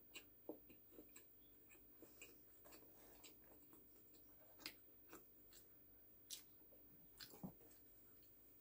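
Faint chewing of a mouthful of pork loin sandwich, with scattered soft mouth clicks and smacks.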